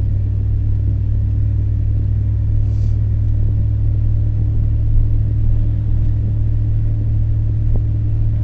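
Steady low rumble of a car on the move, heard from inside the cabin: engine and road noise with a faint steady hum above it.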